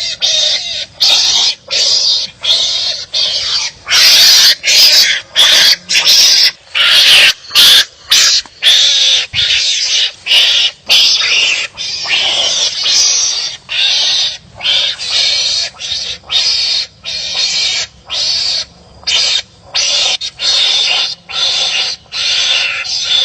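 Harsh, raspy animal barking calls repeated in a fast series, about two short cries a second, loudest between about four and twelve seconds in.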